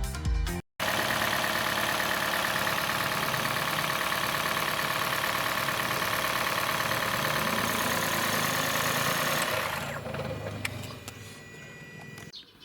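Toyota Aqua's 1.5-litre four-cylinder petrol engine running with a loud rattle, the noise that the owner traced to its spark plugs. It dies away about ten seconds in.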